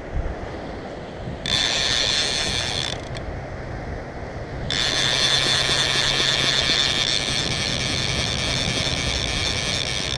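Fishing reel's clicker/drag buzzing as a fish pulls line off: a short run about a second and a half in, then a longer steady run from about five seconds on. This is the sign of a fish, likely a shark, taking the bait. A low rumble sits underneath.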